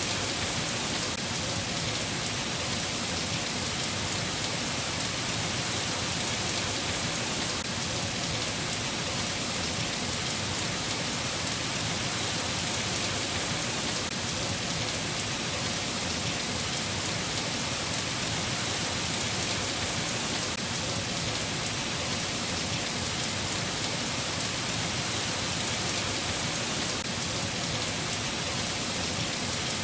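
Steady rain falling, an even hiss of drops without letup.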